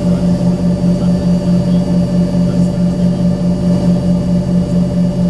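Cabin drone of an Embraer ERJ-135's rear-mounted Rolls-Royce AE3007 turbofan engines, heard from a window seat: a steady low hum with a higher tone above it, beating in an even pulse about three times a second.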